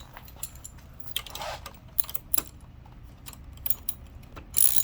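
Scattered light metal clicks and clinks of a bolt and hand tools being handled on a mobility scooter's tiller. Near the end a ratchet wrench starts clicking as the bolt is snugged down.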